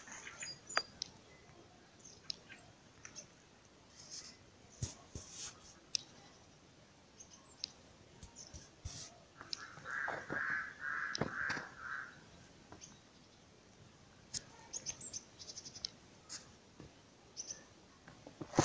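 Birds calling: a run of about four calls comes about ten seconds in, with short high chirps scattered throughout.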